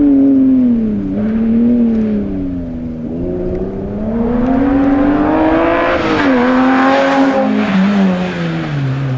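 Rally car engine running hard through a stage, its pitch rising and dropping with throttle and gear changes. It climbs strongly in the middle, then falls steadily near the end as the car lifts off or moves away.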